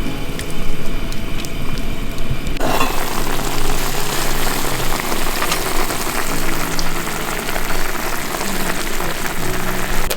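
Food sizzling loudly in a hot pan over a campfire, the sizzle jumping up suddenly about two and a half seconds in as food hits the pan. Background music plays underneath.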